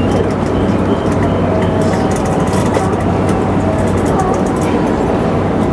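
JR Nikko Line electric train running along the track, heard from inside the front car: a steady rumble of wheels on rail with a low motor hum and scattered light clicks.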